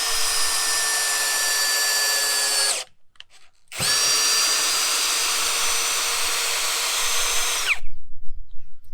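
FERREX Pro cordless combi drill running under the trigger in two long, steady-pitched runs with a pause of about a second between them, its motor giving a high whine. A few uneven knocks follow near the end.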